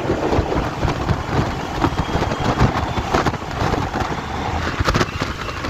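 Semi truck driving on a snow-covered road, heard from inside the cab: steady engine and road noise with irregular clicks and rattles, and a few sharper knocks about five seconds in.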